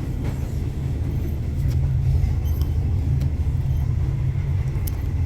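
Sleeper train carriage in motion, heard from inside: a steady low rumble of the running train with a few faint clicks and rattles over it.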